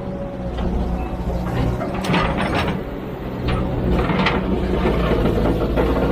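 Excavator's diesel engine running steadily, with a few sharp metallic clanks and rattles over it from the working machine.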